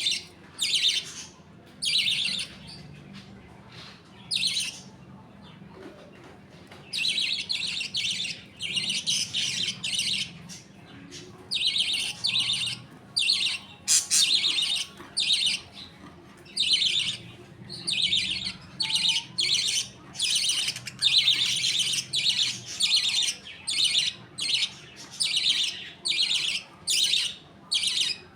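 Budgerigars chattering and chirping, a rapid run of short high calls coming in quick bursts, with a quieter spell a few seconds in.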